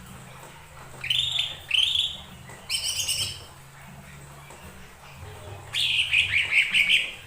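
Cucak ijo mini leafbird singing in short, high phrases: two quick chirps about a second in, a trilled phrase around three seconds, and a longer warbling run near the end. A faint, steady low hum sits underneath.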